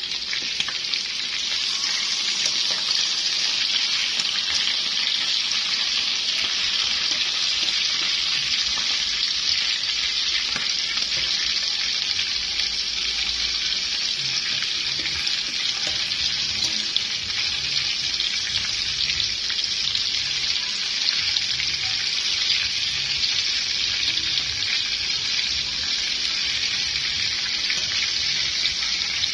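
Pork ribs frying in oil in a metal wok: a steady sizzle with fine crackles.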